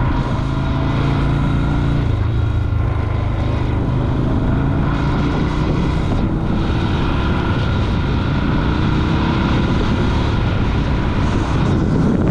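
Yamaha Virago motorcycle's V-twin engine running under way while riding, with the engine note climbing gradually over the last several seconds as it pulls harder.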